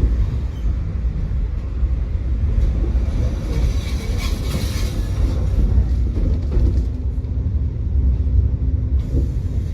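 Tram running along the track: a steady low rumble of wheels and motors, with a brief hiss about four seconds in and a steady hum near the end.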